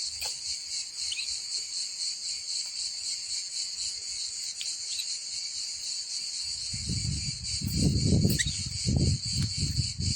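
Steady, high-pitched chorus of insects shrilling without a break. Low rumbling noise joins from about seven seconds in.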